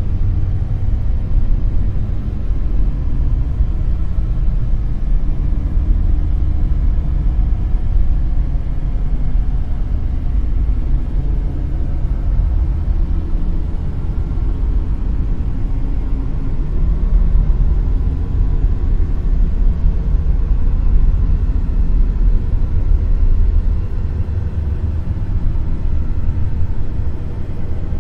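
Dark noise: a steady, deep wash of noise, heaviest in the bass and thinning toward the highs, swelling and easing slowly in loudness.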